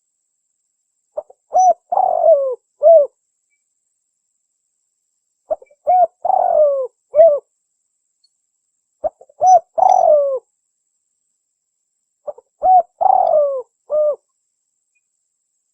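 Spotted dove cooing: four repeats of its call phrase about three and a half seconds apart. Each phrase is a couple of short notes, a longer falling coo and a closing note.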